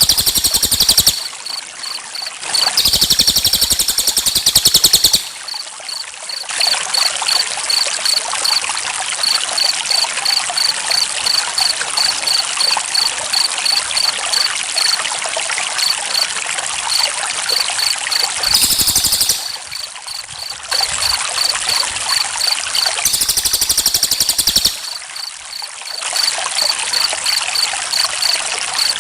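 Steadily trickling water, with crickets chirping in a regular high-pitched pulse. Several times, a loud, rapid cricket trill lasting one to two seconds rises over it.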